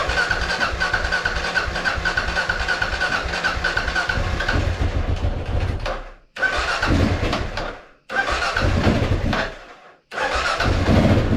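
Kawasaki KLR650's single-cylinder engine being cranked on its electric starter after a carburettor rebuild, with a pulsing starter whine, in several attempts that cut off suddenly. Near the end it catches and runs.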